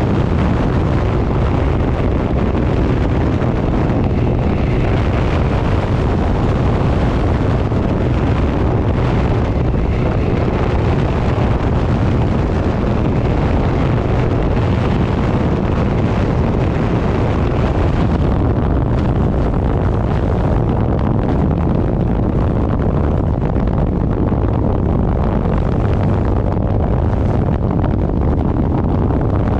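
Loud, steady wind buffeting on the microphone of a moving 1000 cc motorcycle, with the engine running underneath.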